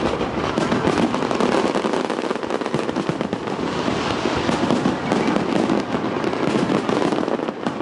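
Fireworks display: a dense, continuous crackle of many rapid small bangs.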